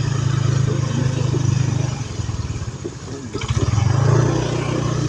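Motorcycle engine running, easing off about two seconds in and revving up again around four seconds.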